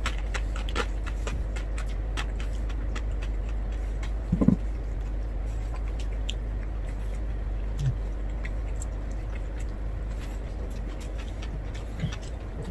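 Close-up eating sounds: a person chewing crispy roast pork (lechon) by hand, with scattered sharp crunchy clicks, over a steady low hum. A brief low 'mm'-like sound about four and a half seconds in is the loudest moment.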